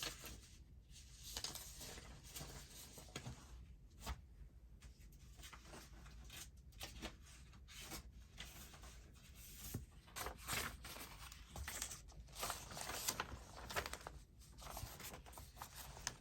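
Faint, irregular rustling of paper sheets being handled and leafed through, with light taps and swishes, busier in the last few seconds.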